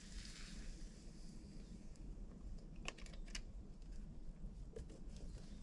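Quiet cooking sounds at the pan as cream goes into the stew: a soft hiss for about the first second, then a few light clicks and taps of utensils.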